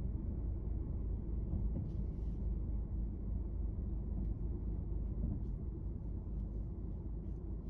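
Steady low outdoor rumble, with a few faint ticks over it.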